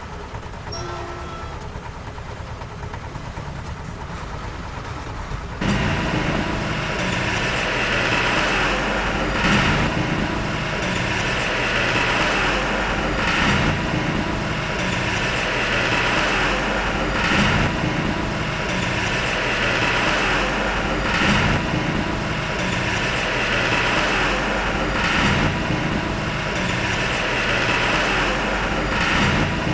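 Heavy diesel earthmoving machinery running: a low engine rumble that switches abruptly about six seconds in to a much louder working machine sound, which swells roughly every four seconds.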